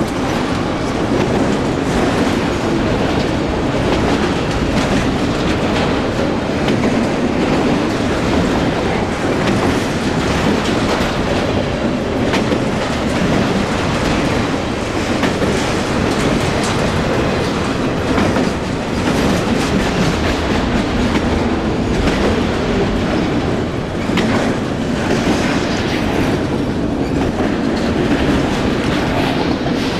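A train rolling past, its cars running steadily with wheels clicking over the rail joints.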